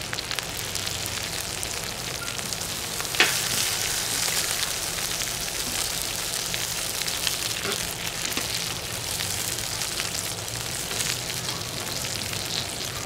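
Chicken and potato skewers sizzling on a hot steel griddle over a wood fire: a steady frying hiss, with one sharp click about three seconds in.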